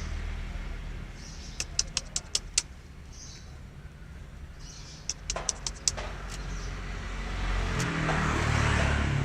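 Steady low rumble of road traffic, with a vehicle passing and growing louder near the end. Over it come a few short high chirps and two quick runs of sharp ticks, one about two seconds in and one about six seconds in.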